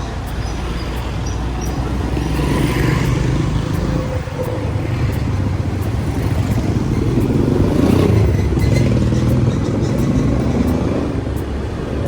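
Motorbike engine running during a ride, with wind and road noise over it; the engine gets a little louder about eight seconds in.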